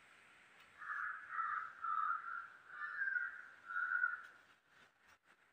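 A bird calling in the background, about five short calls in quick succession.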